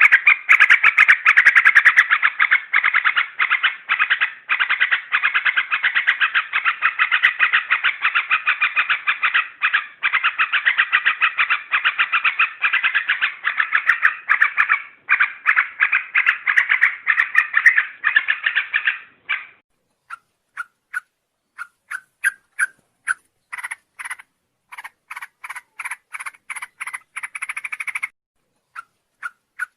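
Yellow-vented bulbuls (trucuk) calling in a lure recording: a dense, rapid chattering that stops about two-thirds of the way through, followed by a sparser run of separate short notes.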